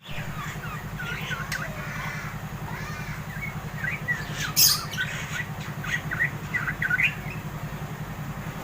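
Young yellow-vented bulbul (trucuk) chattering in a quick run of short, curving chirps, with one louder harsh note about halfway through. This is its ngeriwi twitter as it nears adulthood and begins to call loudly. A steady low hum runs underneath.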